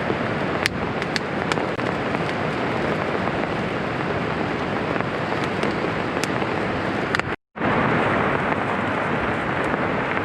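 Heavy rain in a steady downpour, with scattered sharp ticks over the even hiss. The sound cuts out for a split second about three-quarters of the way through, then comes back.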